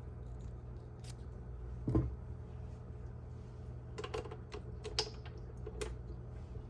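Light clicks and taps from handling the spiralizer attachment and the radish being worked off its spikes: a dull knock about two seconds in, then a quick cluster of small clicks between four and six seconds, over a low steady hum.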